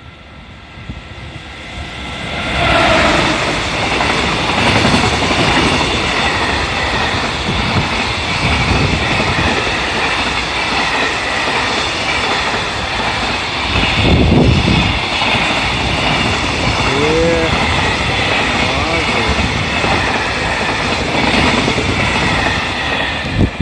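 EF210 electric locomotive and its container freight train passing at speed: quieter as it approaches, then loud as the locomotive goes by about two and a half seconds in. A steady rush of wagon wheels on rail follows as the long string of container flat wagons runs past.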